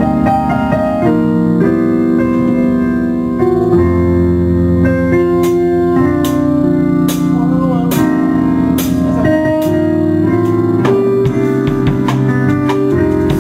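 Electric keyboard playing held chords in a live jam, the chord changing every second or two. Sharp hits join in from about five seconds in and come more often near the end.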